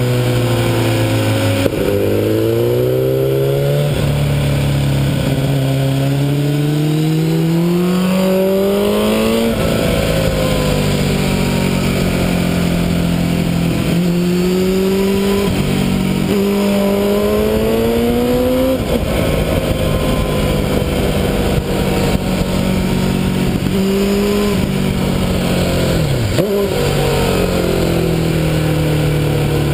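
MV Agusta sport motorcycle engine on track, heard from a camera on its fairing: the engine note climbs steadily twice, each climb ending in a sudden drop in pitch at an upshift, about ten seconds in and again about nine seconds later. In between it holds a steadier note, with a short dip near the end, over a constant rush of wind.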